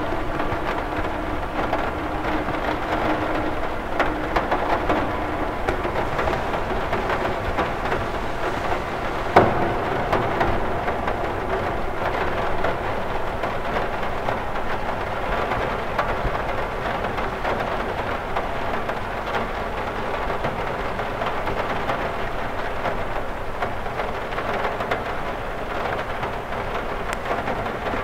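Rain falling on a window: a steady hiss with scattered ticks of single drops, and one sharper tick about nine seconds in.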